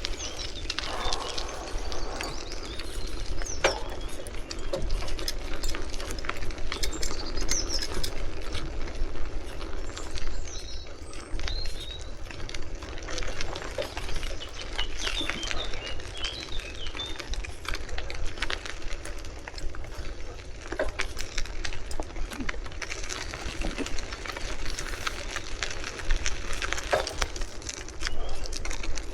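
Riding noise from a moving bicycle: wind buffeting the microphone and tyres rolling on the road, with frequent small clicks and rattles. A few bird chirps come through high above it.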